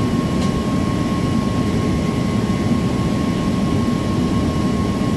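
Steady, loud drone of running machinery: a low rumble with a thin, steady high whine over it.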